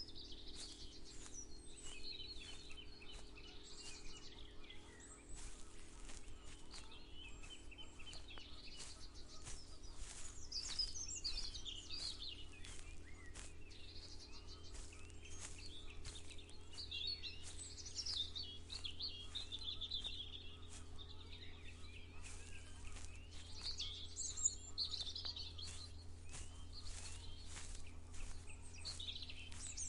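Several birds singing and chirping, with footsteps at a steady walking pace, over a steady low hum.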